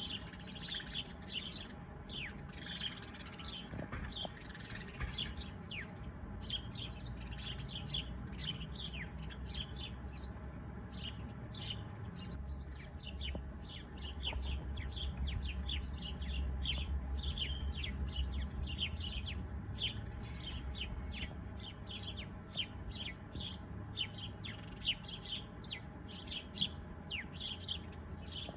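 Small birds chirping constantly: a dense stream of short, quick downward-sliding chirps. A low rumble sits underneath for several seconds in the middle.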